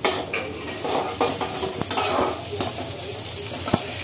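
Sliced onions and green chillies sizzling as they fry in hot refined oil in a pan, stirred with a utensil that scrapes and knocks against the pan now and then.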